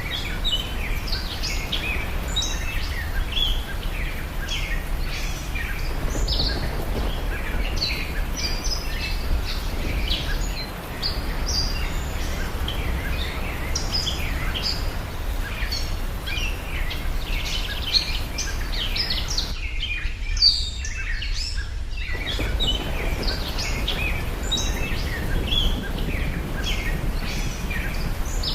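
Many small birds chirping continuously over a steady low background noise. The background noise cuts out briefly about twenty seconds in while the chirping goes on.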